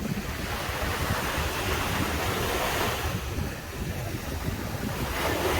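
Sea waves breaking and washing up the beach, one surge swelling over the first few seconds and another near the end, with wind rumbling on the microphone.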